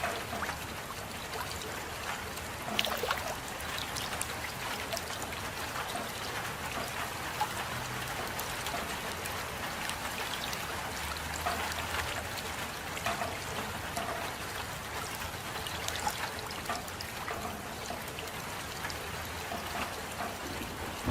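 Steady rain with trickling water, a continuous hiss scattered with the ticks of individual drops.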